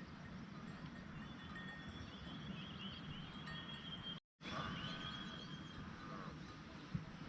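Small birds chirping in short sweeping calls over a steady low outdoor background noise. The sound cuts out completely for a moment a little past halfway.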